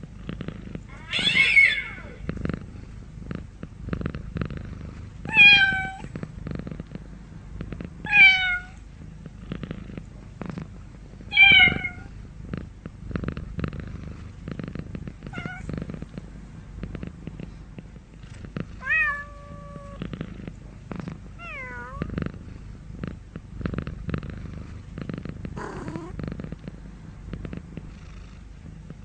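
Domestic cat meowing about eight times, a few seconds apart, over a steady low purr. The first four meows are the loudest, and one longer, drawn-out meow comes about two-thirds of the way through.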